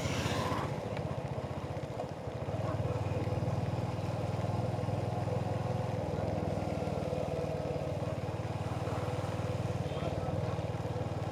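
Royal Enfield Hunter 350's single-cylinder engine running at a steady cruise, its exhaust pulsing evenly. The level dips briefly about two seconds in, then picks back up.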